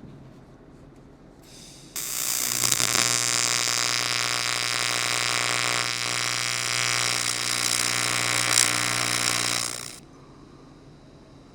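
Electric welding arc buzzing steadily on aluminum while a tack weld is laid on a fuel tank, starting about two seconds in and cutting off suddenly after about eight seconds.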